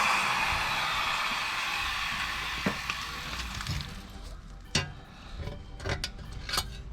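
Angle grinder spinning down after being switched off, its whine falling in pitch and fading over about four seconds; then a few light clicks and knocks of tools and metal being handled.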